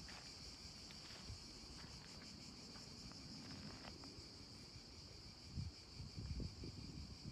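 Faint, steady, high insect chirring with a fast, even pulse, from crickets or cicadas. Soft low thumps come in near the end.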